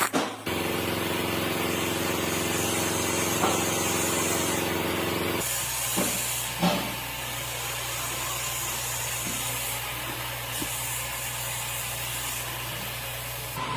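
An engine running steadily, changing to a lower note about five seconds in, with a hiss that comes and goes over it.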